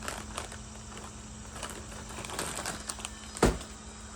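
Crunching and crinkling of lime-flavoured snack chips as they are eaten, a string of short crackles, with one sharper knock about three and a half seconds in.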